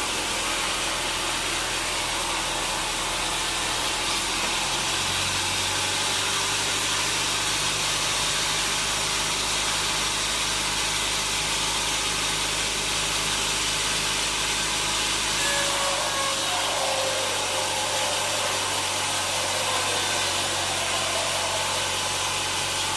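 Sawmill machinery running steadily, an even whirring hiss over a low motor hum. The hum shifts pitch about five seconds in and drops away around a second past the middle.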